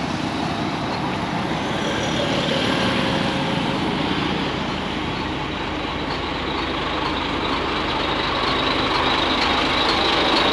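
Steady traffic noise from vehicles running along a busy road.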